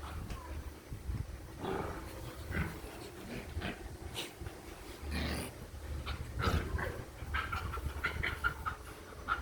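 Puppies making a string of short, scattered sounds, with a run of small quick ones near the end.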